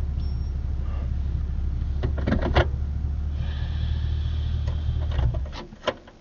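Pickup truck engine idling, with a few clicks about two seconds in, then switched off about five and a half seconds in; a single click follows.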